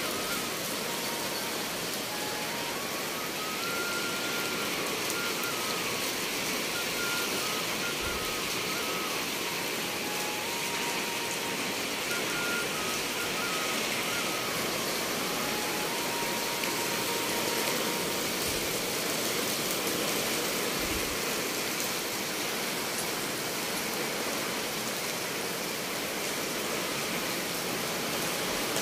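Heavy rain falling steadily, a constant even hiss of rainfall.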